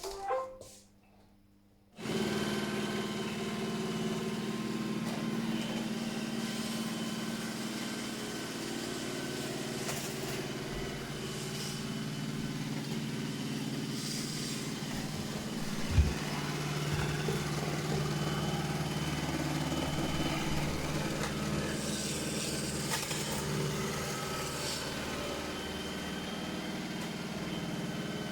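iRobot Roomba e5 robot vacuum starting to clean: after a few start-up tones, its vacuum motor and brushes start abruptly about two seconds in and run steadily, with one sharp knock a little past halfway.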